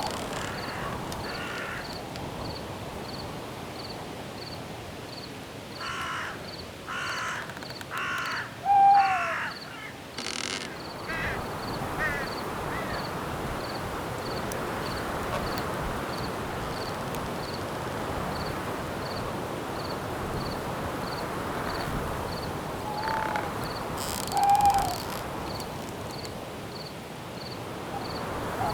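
Night forest ambience: a steady background hiss under faint, evenly spaced insect chirps. A run of four harsh bird calls comes about six seconds in, and two more near the end, each time with a short, slightly falling lower call.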